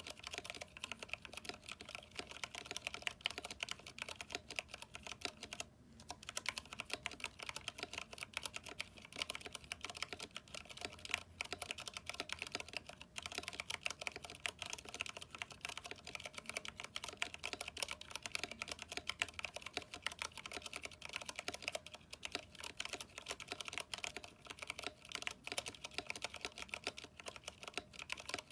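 Continuous fast typing on a mechanical keyboard with PBT keycaps and lubed stabilizers: a dense run of key clicks and clacks, with a brief pause about six seconds in.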